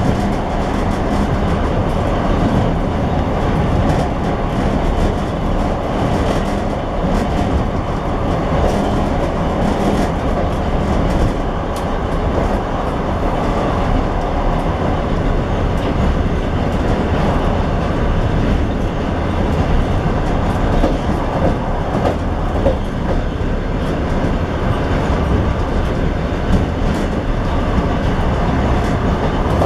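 Train running along the track, heard from inside the last car: a steady rumble and clatter of the wheels on the rails, with scattered light clicks.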